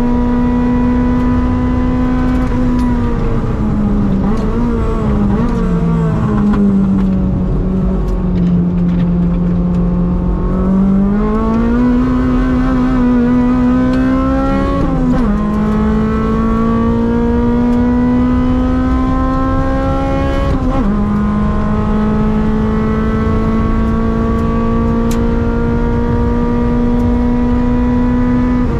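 Toyota Corolla AE101's 4A-GE 20-valve four-cylinder engine heard from inside the cabin on a track lap. The revs are held high, then fall unevenly through braking and downshifts and stay low through a corner. The engine then climbs hard under throttle, with upshifts about halfway through, about three-quarters through and again at the very end.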